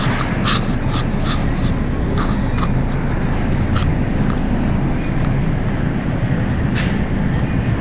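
A shopping cart rolling and rattling as it is pushed over a hard floor: a steady low rumble with scattered clicks.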